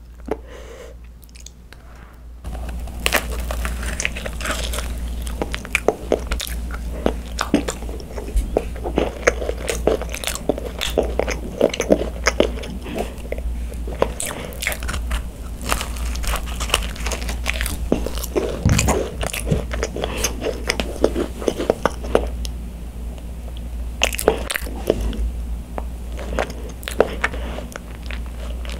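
Close-miked eating of an overstuffed macaron (ttungkaron): a bite into the shell, then crunchy chewing of the crisp shells and soft filling, with many small crackles. The chewing gets louder from about two seconds in.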